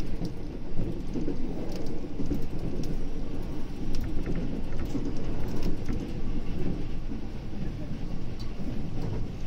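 Running noise of a JR West 521-series electric multiple unit heard from inside the front of the car at speed: a steady low rumble of wheels on rail, with scattered light clicks.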